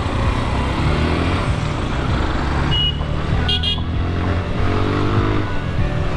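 Motorcycle engine running in road traffic, with short vehicle-horn toots about three seconds in and an engine note rising a little after five seconds.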